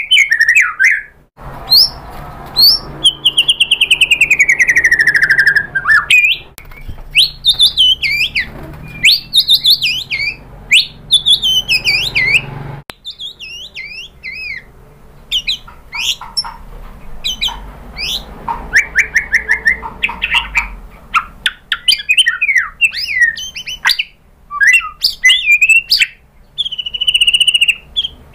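White-rumped shama singing a long, varied song of loud whistled phrases, quick trills and pitch glides, with a fast run of notes falling in pitch about three seconds in.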